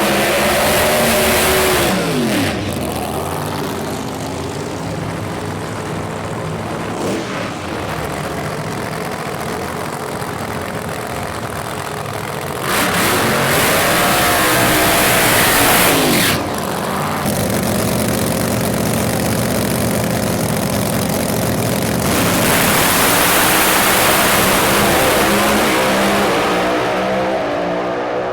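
Drag-racing engines revving and running hard, rising and falling in pitch in three loud surges: near the start, about halfway through and near the end, with steady loud engine noise between.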